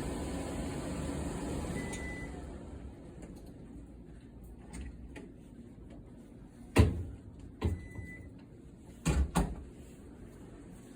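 Drum clothes dryer running with a steady low hum that dies away about two seconds in as it is switched off, with a short electronic beep. Then a few sharp clunks and a second short beep.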